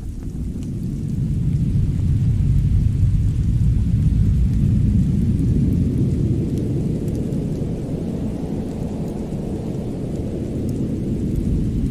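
Deep, steady rumbling noise that swells about two seconds in and again near the end, with a few faint crackles of a fireplace fire over it.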